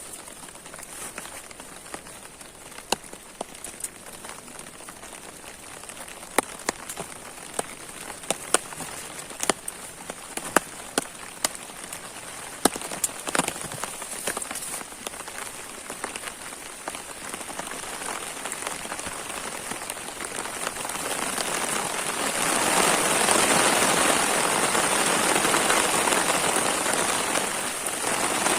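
Rain falling, with single heavy drops ticking sharply through the first half. About two-thirds of the way in the rain grows much heavier and louder, a dense downpour.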